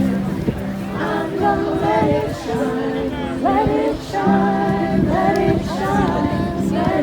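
A group of people singing together in chorus, several voices holding long notes in short phrases.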